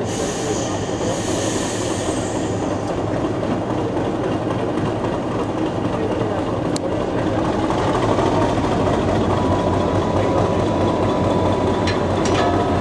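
Heritage railway coaches rolling slowly past alongside on the next track: a steady rumble of wheels on rail over a low hum. A faint steady high tone comes in about two-thirds of the way through.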